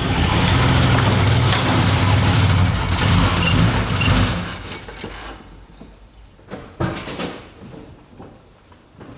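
Car engine running loudly, then dying away about five seconds in, followed by a few faint knocks.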